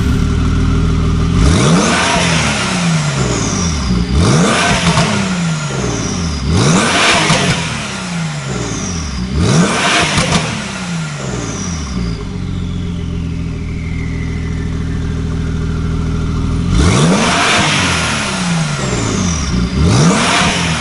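Porsche 992 Carrera S twin-turbo flat-six, fitted with a cat-less, OPF-delete IPE full exhaust and a stage 2 tune, revved in sport mode. It gives about six quick blips, each rising sharply and falling back to idle, with a longer stretch of idle in the middle.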